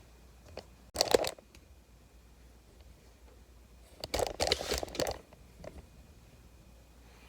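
Small parts being handled on a workbench: a short rattling clatter about a second in, then a longer spell of rustling and clattering about four seconds in.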